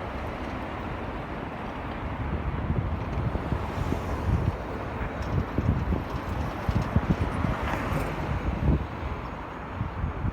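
Wind buffeting the microphone of a moving bicycle in low, irregular gusts, over the steady rush of street traffic.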